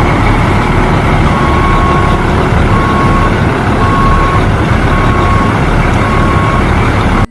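A heavy vehicle's engine running loudly while a reversing alarm beeps five times, about once a second, starting about a second in. The sound cuts off suddenly.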